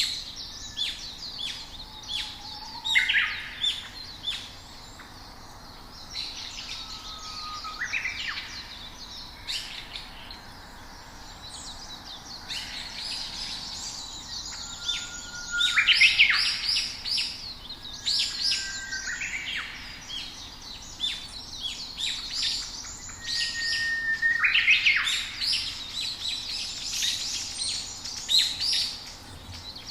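Several songbirds chirping and singing in quick, overlapping calls, with a few short whistles that slide in pitch.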